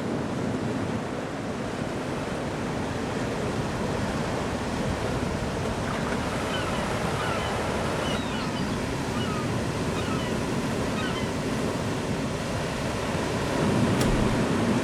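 Surf washing on a shore, a steady rushing noise, with a few faint short high chirps through the middle.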